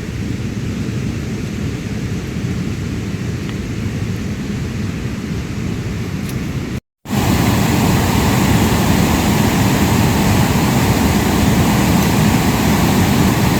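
Steady rushing noise of heavy rain. It breaks off for a moment about seven seconds in and comes back a little louder.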